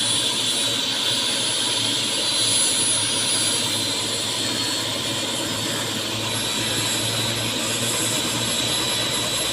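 Helicopter's turbine engine and rotor running steadily, with a thin high whine over the even rushing noise.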